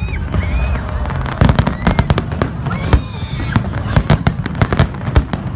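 Aerial firework shells bursting in a rapid string of sharp bangs, which comes thickest from about a second and a half in.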